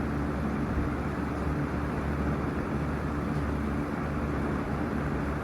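Lakewood S-223 box fan running steadily on medium speed: motor hum under the even rush of air from the blades.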